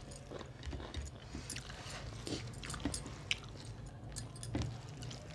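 Close-miked chewing of rice and fish curry: soft, wet mouth clicks and smacks at irregular intervals.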